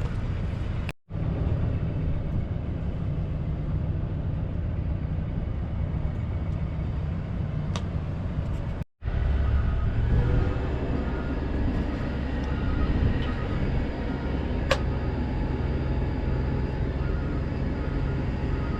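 Steady drone of a sailboat's inboard diesel engine running, with two sudden brief dropouts, about a second in and about nine seconds in; after the second the low drone is heavier.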